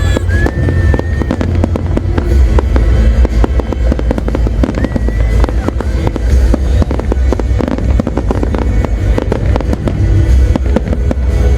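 Large fireworks display going off non-stop: a dense run of rapid bangs and crackles over a continuous deep rumble of booms. Brief high whistles sound near the start and again about five seconds in.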